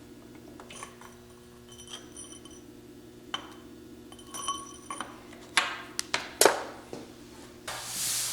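Metal tools and engine parts clinking and knocking as they are handled: scattered light clinks with a brief ring, then several louder knocks about two-thirds of the way in, over a steady low hum. A rushing noise starts near the end.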